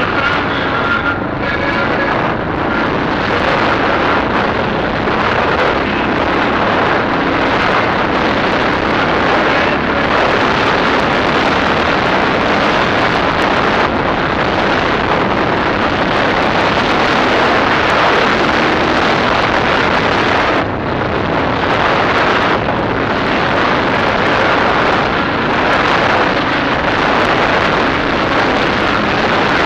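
DF250RTE 250 cc dirt bike running under way, its engine mixed with heavy wind noise on the microphone. The level dips briefly about two-thirds of the way through.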